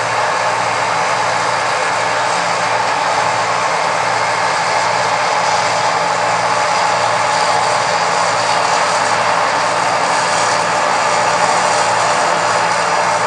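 Massey Ferguson 8570 combine harvester running steadily while harvesting corn: a continuous engine drone with a steady whine above it.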